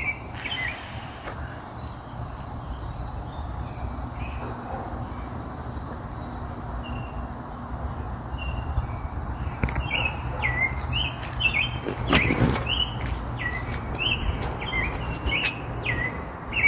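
Wild birds chirping in short, quick calls, sparse at first and coming thick and fast from about ten seconds in, over a steady low rumble. A brief louder noise breaks in a little past halfway.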